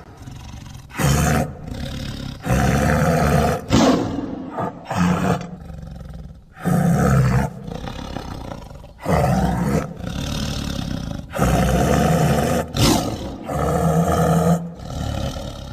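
Big-cat roars layered from lion and tiger recordings, made as the voice of the scimitar-toothed cat Homotherium: a series of loud roars, each about a second long, with quieter growling between them.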